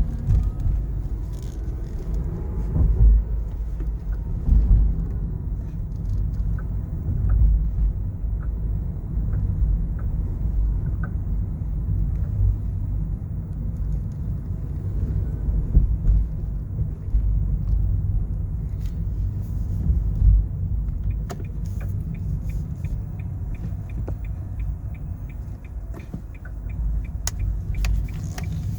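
Nissan Leaf driving, heard from inside the cabin: a steady low road rumble with a few louder low knocks. The knocks are the driveshaft clunk that comes as the car speeds up and slows down, a known fault on this model that a dealer can only treat by re-greasing the shaft.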